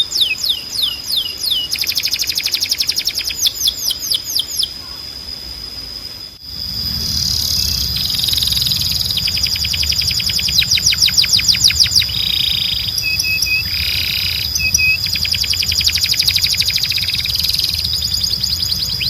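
Domestic canary singing: phrases of rapid trills, each a fast run of repeated high notes, one phrase after another with short changes between. A low background hum comes in about a third of the way through.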